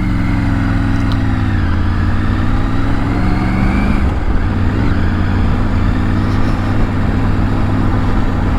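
Motorcycle engine running while ridden, heard from on the bike: the revs dip, rise again for a couple of seconds, then hold steady, over a constant rush of wind and road noise.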